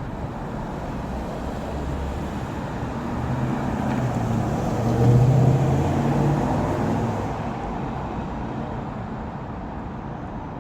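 Motor vehicle engine and road noise, swelling to its loudest about halfway through and then easing off.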